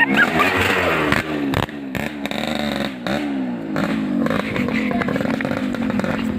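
Vehicle engine revved in repeated blips, the pitch rising and falling with each rev, then settling into a steadier run after about four seconds.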